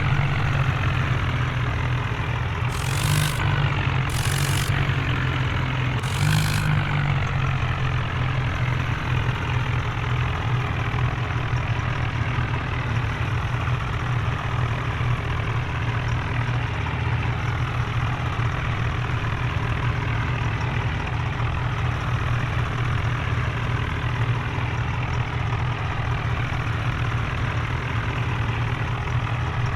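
Heavy diesel engine running steadily, with three short bursts of hiss in the first seven seconds.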